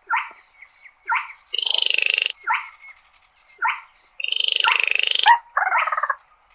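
Baillon's crake calling: short sharp notes about a second apart, broken twice by a frog-like rattling trill lasting about a second.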